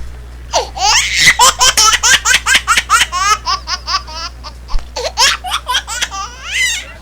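High-pitched hearty laughter in a rapid run of short bursts, about five a second, breaking off and starting again a few times.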